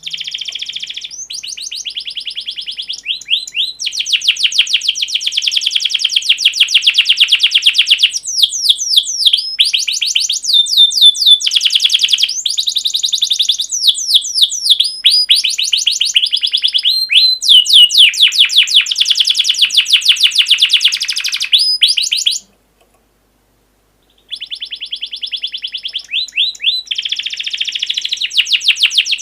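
Songbird song recording of the kind used as a masteran for training cage birds: long, loud, fast trills of repeated high chirps and sweeping whistled notes. The song cuts off suddenly about two-thirds through and resumes after a second or two of silence.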